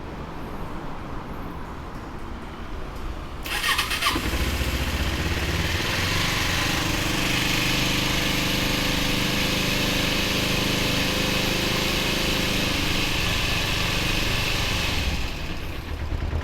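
Kawasaki Eliminator 250SE parallel-twin motorcycle engine cranked on the starter, catching with a short clatter about three and a half seconds in, then settling into a steady idle.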